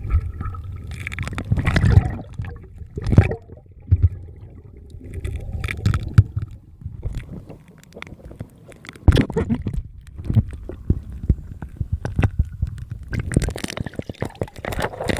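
Water sloshing and splashing in irregular surges, with scattered knocks and bumps.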